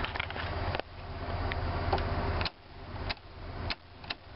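A 1988 Ford F-150's 300 inline-six idling steadily, heard from inside the cab. Several sharp clicks come through it, and the sound drops away suddenly a few times.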